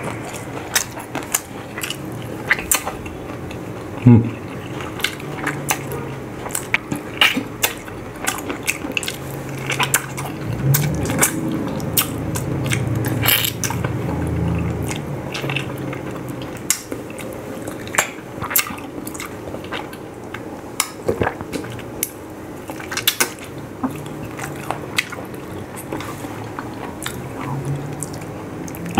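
Close-up wet eating sounds of ripe mango flesh being bitten off the skin and chewed, with frequent sharp lip smacks and clicks. There is a low hum for a few seconds in the middle.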